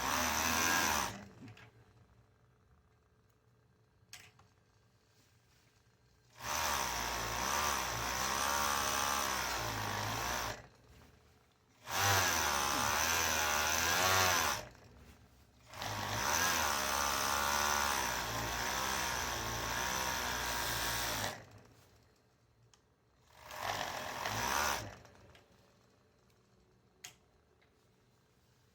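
Electric sewing machine running in five stop-start runs of one to five seconds each, its motor pitch wavering as it speeds up and slows, while tablecloths are being sewn.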